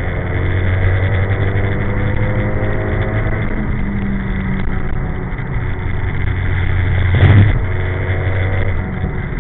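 Nissan Silvia S14's engine heard from inside the cabin, pulling on track with the revs rising through the first few seconds, then dropping and running steadily. A short, loud thump comes about seven seconds in.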